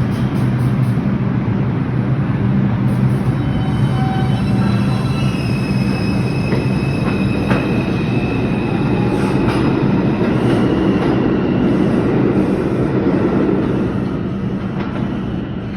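New York City subway train running through the station with a steady low motor hum and thin, high wheel squeal from about four to ten seconds in, with a few clicks from the wheels. It gets quieter near the end as the train moves off.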